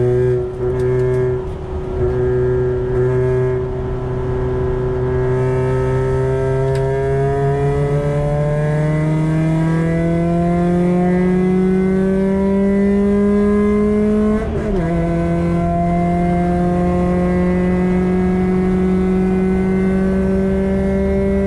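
Engine-swapped Mk5 Fiesta's 1.7-litre Ford Puma four-cylinder, with a 4-2-1 manifold and Milltek de-cat exhaust, heard from inside the cabin under hard acceleration on track. The pitch dips briefly twice near the start, rises steadily through a long gear, drops sharply on an upshift about two-thirds of the way in, then climbs again and holds.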